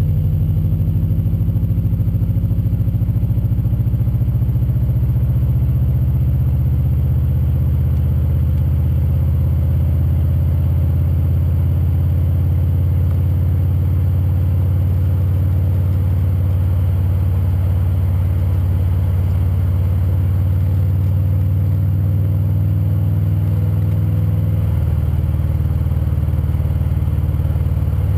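2002 Subaru Outback's 2.5 L EJ25D flat-four idling steadily through an HKS Hi Power Ti axle-back exhaust and Borla headers, a deep even exhaust note with no revving.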